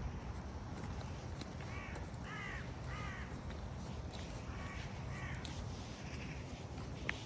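A crow cawing, two series of about three harsh caws a couple of seconds apart, over a steady low rumble of wind on the microphone. A sharp click near the end.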